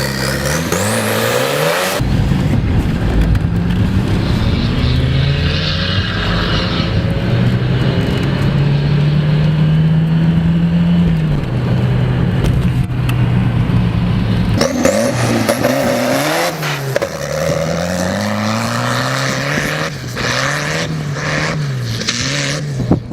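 Fordson tractor engine revving hard, its pitch climbing and falling again and again, held high for a stretch near the middle and swinging up and down in quick succession near the end. The sound cuts abruptly twice.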